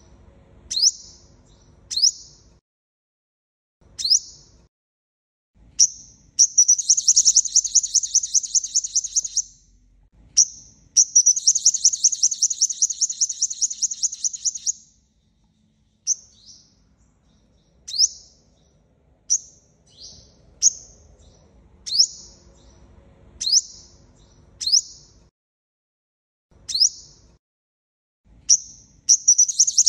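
Sunbird calls: sharp, high single chirps about once a second, twice giving way to a rapid trilling twitter that lasts three to four seconds, with another trill starting at the very end.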